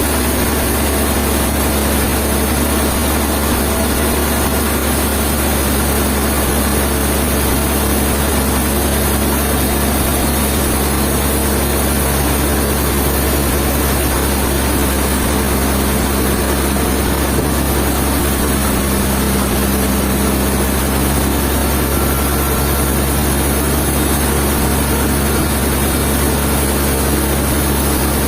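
Heavy engine running steadily at an even pitch, with no change in load.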